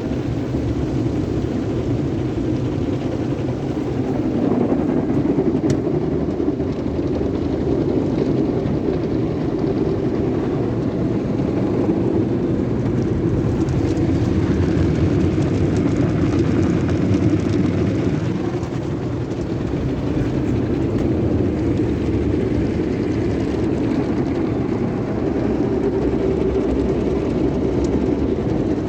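Sonny's tunnel car wash running: a steady, loud mix of machinery and water noise that holds without a break.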